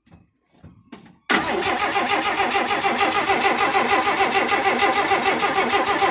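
Starter cranking the 1958 AMC Rambler's 195.6 cubic-inch OHV straight-six with the choke closed, a fast, even rhythmic chugging that starts suddenly about a second in and stops near the end without the engine catching. The engine gets no fuel, none reaching the fuel filter or carburetor bowl, which the owners suspect is a fuel pump not delivering.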